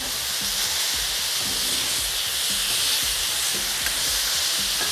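Mushrooms and onions frying in olive oil on a wood-fired brasero plancha, a steady high sizzle.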